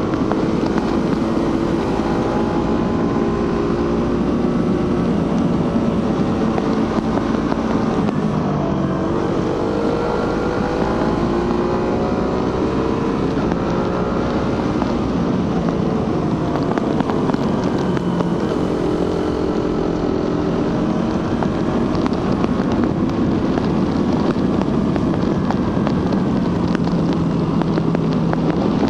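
Suzuki GSX-R150's single-cylinder engine and stock exhaust under way, the engine note rising and falling several times as throttle and gears change, with wind rush over the microphone.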